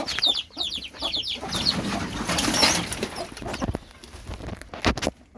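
Rapid, high-pitched, falling squeaky cries from a young animal, several a second, stopping about a second in. A rustling stretch follows, then a few sharp knocks near the end.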